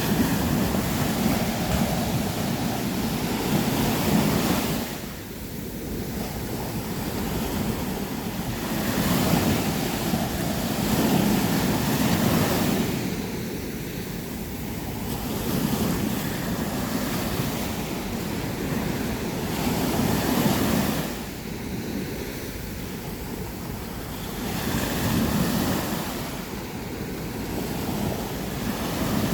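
Ocean waves breaking and washing up on a sandy beach, the surf swelling and easing every few seconds, with some wind buffeting the microphone.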